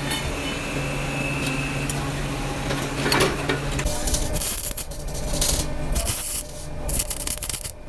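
A steady workshop machine hum, then, about halfway, a series of rasping strokes on metal, roughly one a second, as a part is filed or abraded; the hum stops as the strokes begin.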